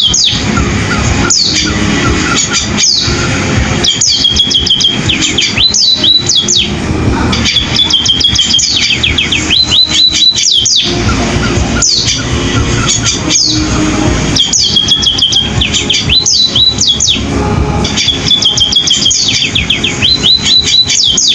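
A 'pipit' (Indonesian small finch-type cage bird) singing a canary-like song: repeated phrases of quick high chirps and a fast trill, every couple of seconds, over steady low background noise.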